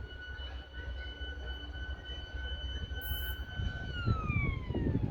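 Horn of an old 5M2A electric multiple unit sounding one long steady note over the low rumble of the train. About four seconds in, the note slides down in pitch as the train passes, and the rumble grows louder.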